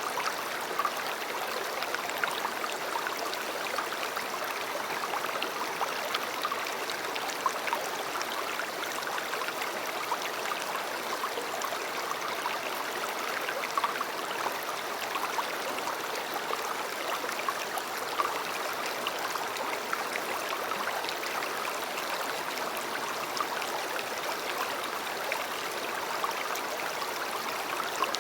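A river flowing steadily, a continuous rush of water with small splashes throughout.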